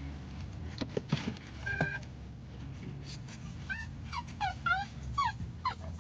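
Dog whining in a run of short, high, sliding whimpers, starting about halfway through and repeating over the low hum of the car. A short beep sounds near two seconds in.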